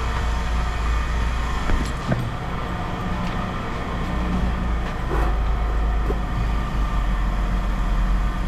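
Steady low engine rumble, like a vehicle idling, with a few short knocks about two and five seconds in.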